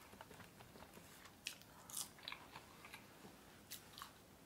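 Near silence with faint chewing and mouth clicks: a scattered run of small ticks from about a second and a half in.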